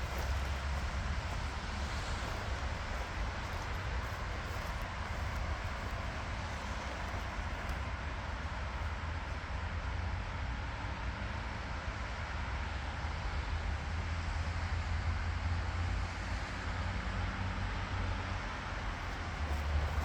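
Steady rushing of floodwater at a creek outlet backed up after heavy rain, with a low rumble of wind on the microphone.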